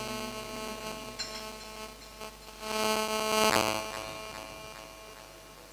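Steady electrical hum from the amplified sound system, with many steady tones. The echo of the reciter's last note fades out at the start, and a brief louder swell of sound comes about three seconds in.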